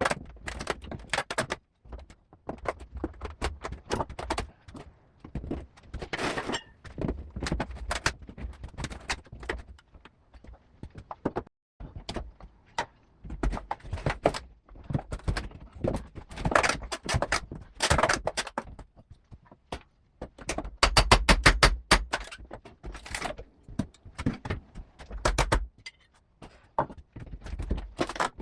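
Irregular knocks, clatter and scrapes of hand work on a window installation, with a quick run of rapid clicks about three-quarters of the way through.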